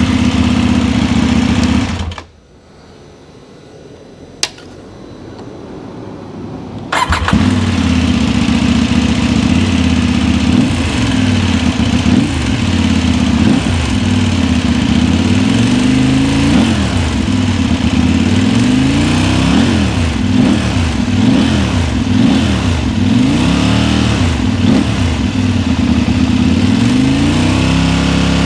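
KTM 890 Duke parallel-twin engine through an Akrapovič exhaust. It runs, cuts off about two seconds in and starts again about seven seconds in, then idles with repeated throttle blips that rise and fall in pitch.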